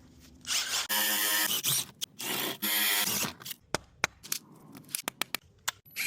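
A handheld power tool runs in two bursts of about a second each, followed by a string of sharp clicks and taps from working on the water pipe.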